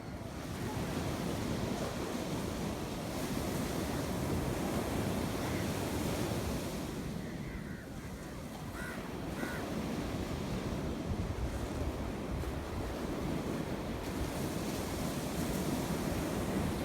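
Sea waves washing onto a shore, a steady surf wash that swells, eases a little about halfway through, and builds again, with wind rumbling on the microphone.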